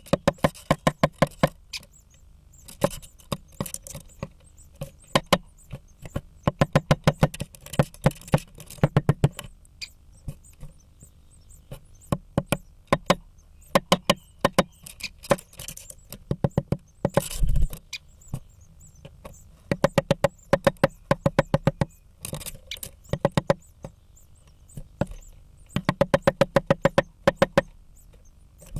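Great spotted woodpecker hammering at wood: runs of rapid sharp pecks, several a second, lasting a second or two with pauses between, and one heavier thump a little past the middle.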